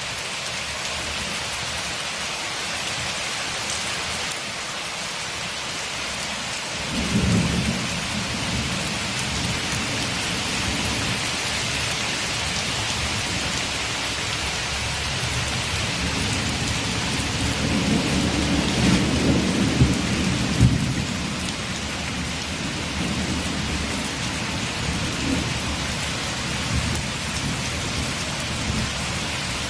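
Steady rain pattering on a window, with thunder: a low rumble breaks in suddenly about seven seconds in, and a longer rolling rumble builds through the middle, loudest about two-thirds of the way through, then fades back under the rain.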